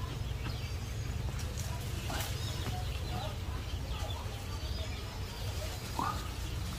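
Birds chirping and calling here and there over a steady low rumble, with one sharper, brief sound about two seconds in.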